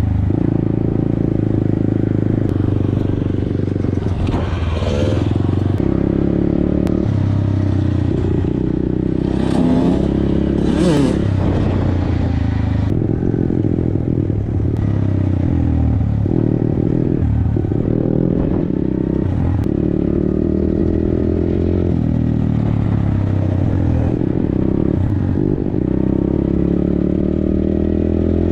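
Dirt bike engine running while being ridden, its pitch stepping and sliding up and down with throttle and gear changes.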